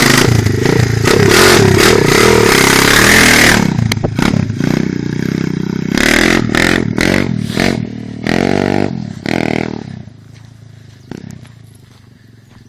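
250 cc dirt bike engine running hard, then a series of short revs from about six seconds in, each rising in pitch, before the sound drops away near the end.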